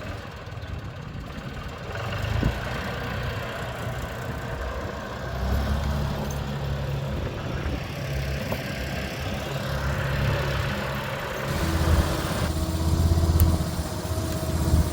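Small mini skid steer engine running, getting louder in two steps, about five seconds in and again near twelve seconds, as it is worked harder.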